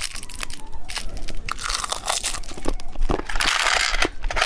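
Plastic candy packaging being crinkled and pulled open by hand: a run of sharp crackles, with a louder, longer rustle about three and a half seconds in.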